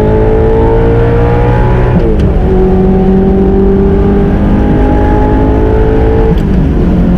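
Audi R8 V8 with an Armytrix titanium exhaust at full throttle, the engine note climbing steadily through the revs. It drops sharply with an upshift about two seconds in, climbs again, and shifts up once more near the end.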